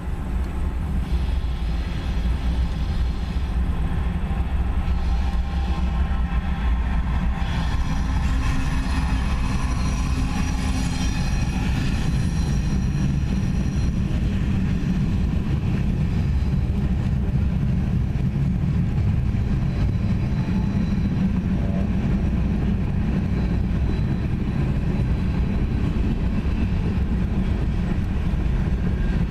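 Norfolk Southern freight train's diesel locomotives running by with a steady low rumble. Fainter high whining tones come and go in the first half.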